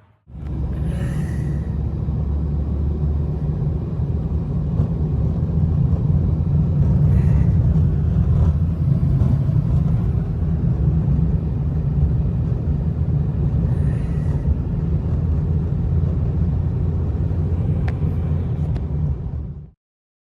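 Strong blizzard wind rumbling and buffeting the microphone, a loud steady low roar that cuts off suddenly near the end.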